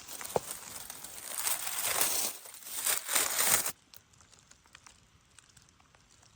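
Crackling rustle of dry leaves and twigs being disturbed, building up and then stopping abruptly a little before four seconds in, leaving faint forest quiet with small scattered ticks.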